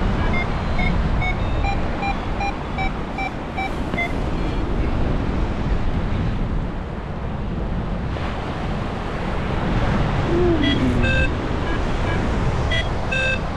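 Strong wind buffeting the microphone through a worn windscreen, a steady low rumble. Over it, for about the first four seconds, a paragliding variometer gives quick, evenly spaced high beeps: its climb tone, the sign that the wing is rising in lift. A couple of short beeps follow near the end.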